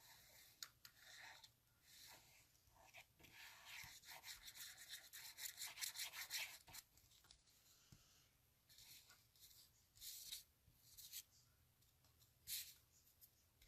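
Faint rubbing and scratching of paper as liquid glue is spread on cardstock and the pieces are handled, with a run of quick scrubbing strokes in the middle.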